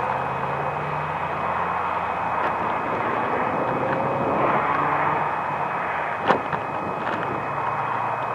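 Steady outdoor background noise and wind, heard through a camcorder microphone covered in plastic wrap, with a sharp click about six seconds in.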